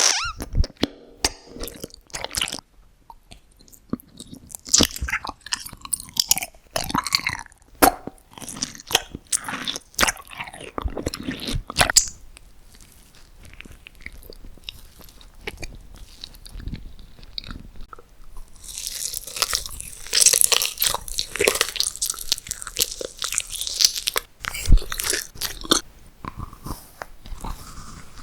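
Close-miked eating: repeated bites and crunchy chewing of food, with a quieter patch in the middle and a dense run of loud crunching about two-thirds of the way through.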